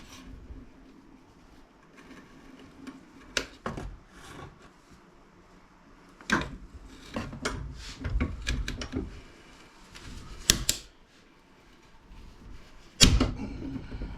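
Scattered clicks, knocks and rattles of hand tools and hard plastic and metal parts being handled while an appliance is taken apart to pull out its power cable. The loudest knock comes near the end.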